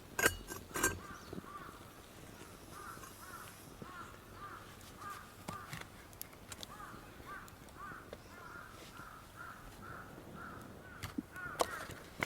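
A few sharp metallic clinks of cookware in the first second, then a bird calling over and over in short, arched notes, about two a second; more clinks near the end.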